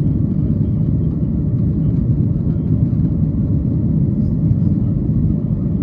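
Steady low cabin rumble of a Boeing 737-800's CFM56 jet engines and airflow under power, heard inside the passenger cabin.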